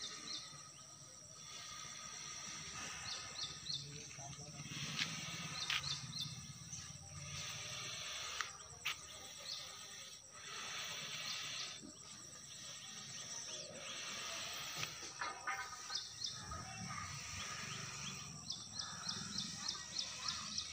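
Outdoor rural ambience: small birds chirping in short runs of quick high notes, several times, over a steady high-pitched hiss and a faint low rumble.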